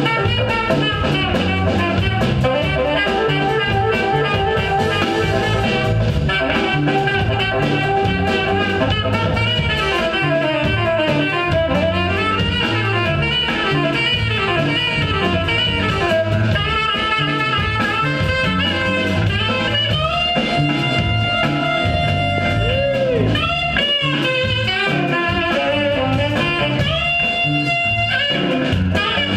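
Funk band playing with saxophone lead, brass, drum kit and electric guitar over a steady beat; the horns hold several long high notes in the second half.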